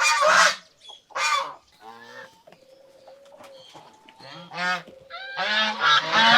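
Domestic geese honking: a few loud calls at the start, a quieter stretch in the middle, then a run of overlapping honks near the end.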